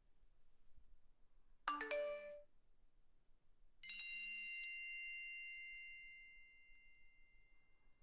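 Two phone notification sounds. About two seconds in comes a short alert of a few quick pitched notes. Then, about four seconds in, a bell-like ding is struck twice and rings on, fading out over about four seconds.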